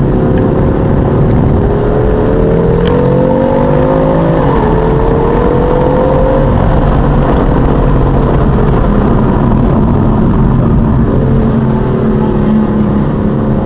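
BMW M4's twin-turbo straight-six heard from inside the cabin, pulling hard on track: the engine note rises for about four seconds, drops suddenly at an upshift, climbs a little again, then slowly eases off, with another brief dip about eleven seconds in. Tyre and road noise run underneath.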